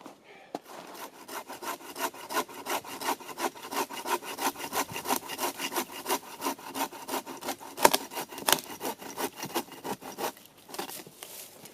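Saw cutting wood in quick, even back-and-forth strokes, about four a second, easing off and stopping near the end.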